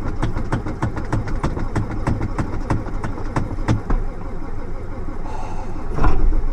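Ford F-250 diesel engine cranking on its starter during a cold start, a rhythmic chug of about five beats a second that dies away about four seconds in without the engine catching. A short hiss and a louder burst follow near the end.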